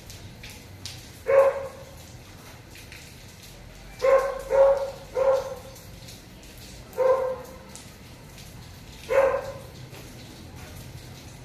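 A dog barking six times at uneven intervals, over a steady hiss of light rain with faint drips.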